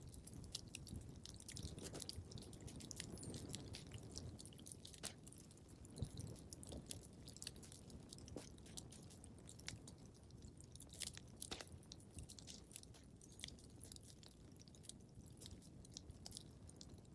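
Wood fire crackling faintly: irregular sharp crackles scattered over a low, soft rumble.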